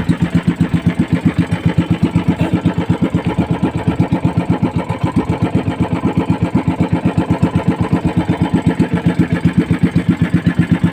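Small boat engine of a motorised outrigger fishing boat running steadily, with an even, rapid putter of about eight beats a second.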